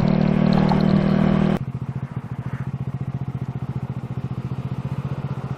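SSR Razkull 125 pit bike's single-cylinder four-stroke engine running steadily under throttle, then the throttle is closed about a second and a half in and it drops to a quieter, evenly pulsing low-rev note.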